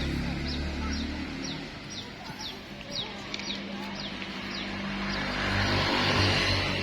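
Sooty-headed bulbul (kutilang) giving a run of short, high, downward-sliding chirps about twice a second, over a low steady hum.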